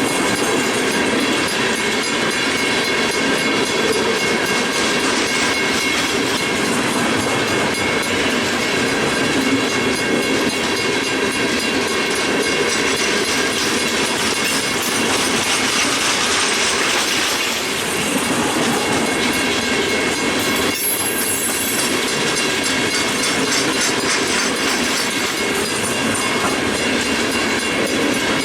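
A freight train's cars rolling past steadily, wheels clicking over rail joints under a continuous rumble, with faint steady high-pitched tones from the wheels.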